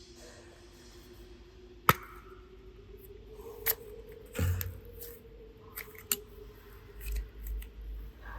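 Sharp clicks and snips from hands handling clay and tools: one loud click about two seconds in, then several more through the second half, over a faint steady hum.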